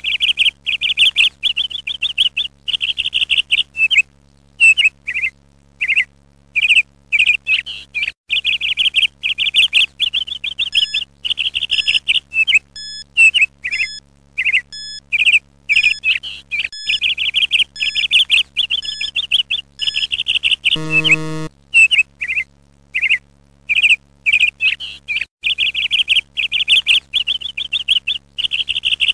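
Small birds chirping and trilling in rapid runs with short pauses between them. About 21 seconds in, a short electronic buzzer sounds once.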